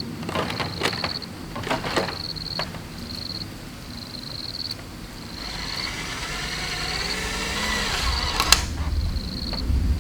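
Sharp knocks from bamboo being worked, several in the first few seconds and one near the end, over an insect chirping in short repeated bursts.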